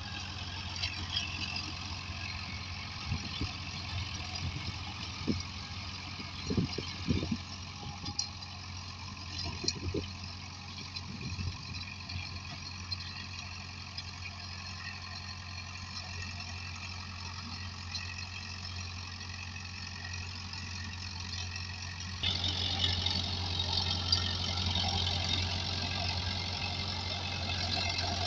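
Powertrac Euro 60 tractor's diesel engine running steadily, with a few short knocks in the first half. About 22 s in the engine sound steps up suddenly, louder and brighter, and stays there.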